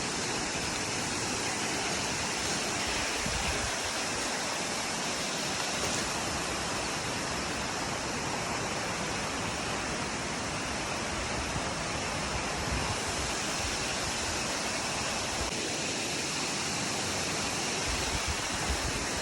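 Steady rushing of a nearby waterfall, with an uneven low rumble underneath.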